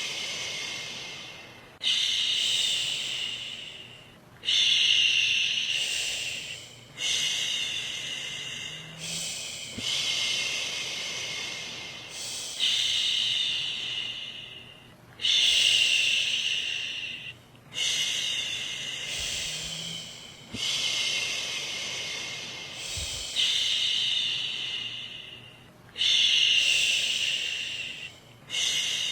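A woman shushing, 'shhh', over and over to soothe a baby to sleep. Each shush starts sharply and fades away over about two seconds, with a new one about every two to two and a half seconds.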